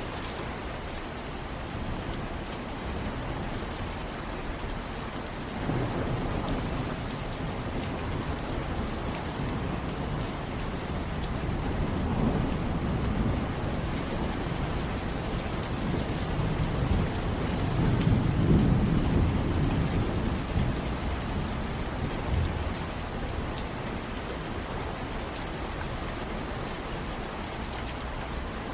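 Steady rain falling, with rolling thunder rumbling underneath that builds in several waves, loudest about two-thirds of the way through, then fades back to rain alone.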